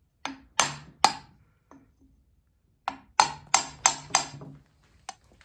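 Hammer blows, about ten sharp ringing strikes, first a few spaced taps and then a quicker run of five or six, driving a new rear main seal into a VW Beetle engine case.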